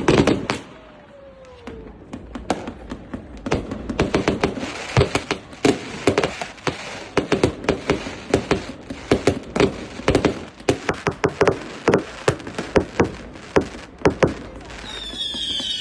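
A celebratory salute of sharp bangs: one loud bang at the start, then from a few seconds in a dense, irregular run of bangs, several a second.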